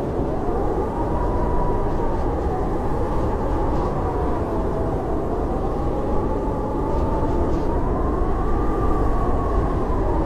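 Howling blizzard wind: a steady deep rush with a whistling howl that slowly rises and falls in pitch.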